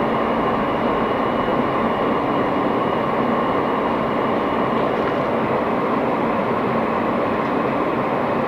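Interior running noise of an R160 New York City subway car in motion: a steady, even rumble of wheels on rail with a few steady whining tones on top, holding constant speed.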